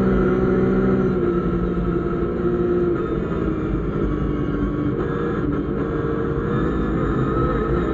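BMW rally car's engine heard from inside the cabin, running hard with its revs shifting slightly up and down, over a steady low rumble of tyres on the road.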